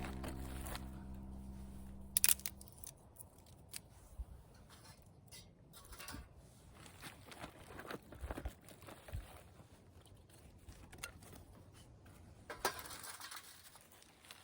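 Background music fading out over the first couple of seconds, then scattered light clicks, taps and rustling of small objects being handled, with a sharper pair of clicks about two seconds in and another near the end.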